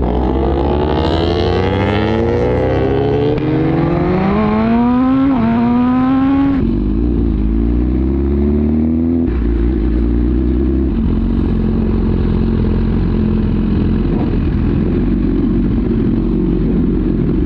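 Suzuki GSX-R1000R inline-four motorcycle engine with an Arrow exhaust, accelerating. The pitch climbs, drops at an upshift about six and a half seconds in and again about nine seconds in, then holds at steady cruising revs.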